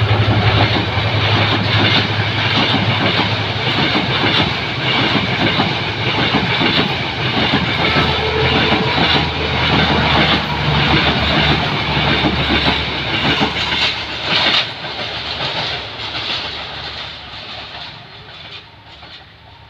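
Passenger coaches of a diesel-hauled express train rolling past close by: a steady rumble with wheels clacking over the rail joints. The sound fades away over the last few seconds as the train moves off.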